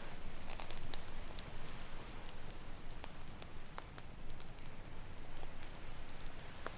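Wood campfire crackling with scattered sharp pops, a cluster of them about a second in, over a steady wash of ocean surf.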